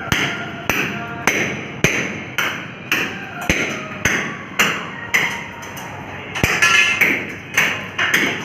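Sharp knocks repeating evenly, about two a second, each with a short ring; a brief tonal swell comes in about two-thirds of the way through.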